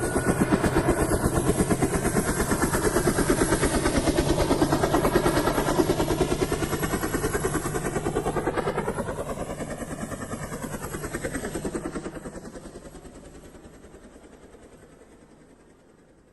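A vehicle passing by: a fast, pulsing mechanical sound holds loud, bends in pitch about ten seconds in, then fades away over several seconds.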